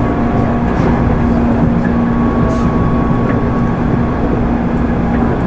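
Running sound inside a JR 205 series 600 electric commuter car: a steady rumble of the wheels on the rails, with a constant hum from the running gear. The level holds even, so the train is running at a steady speed.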